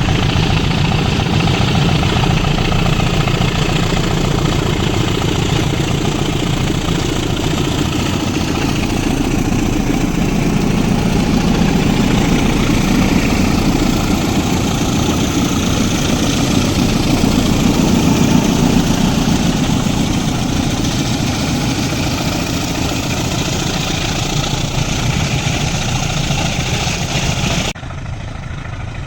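Diesel locomotive of a loaded ore freight train running, a loud steady engine noise. The noise drops off suddenly near the end.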